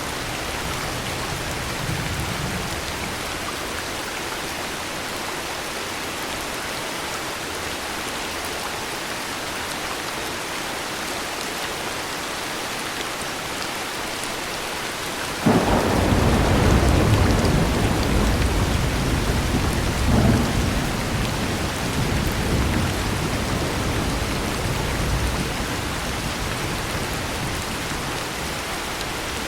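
Steady heavy rain. About halfway through, a sudden clap of thunder breaks in and rumbles low for several seconds, with a second crack a few seconds later, before easing back under the rain.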